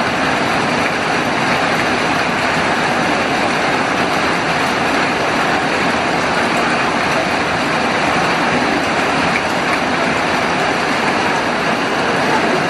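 Heavy rain pouring down, a steady, even hiss that holds unbroken throughout.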